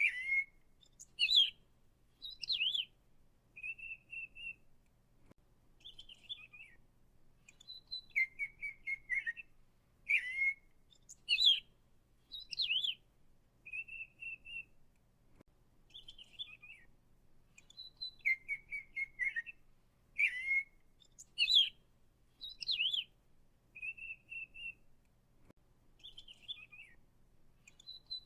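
A songbird singing a series of short, varied whistled phrases: trills, rising and falling sweeps and short steady notes, with a pause between each. The same sequence comes round again about every ten seconds.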